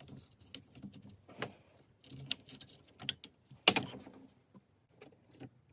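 Irregular clicks and light knocks of the dismantled circular saw's plastic housing and small parts being handled and set down, the loudest about three and a half seconds in.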